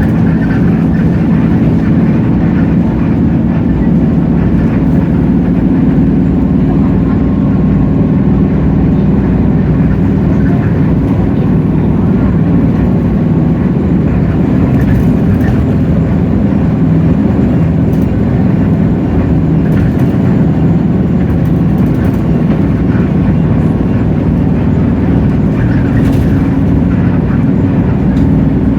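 A Hino J08E-VN 7.7-litre straight-six diesel in a Hino RK8JRVA city bus, running steadily under way.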